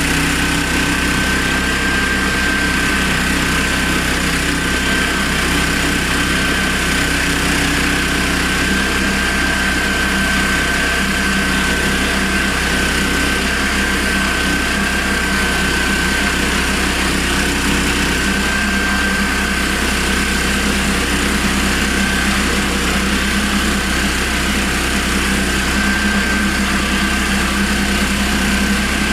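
Honda GX390 single-cylinder petrol engine running steadily on a homemade portable sawmill as it saws an oak log, with a steady high whine over the engine hum.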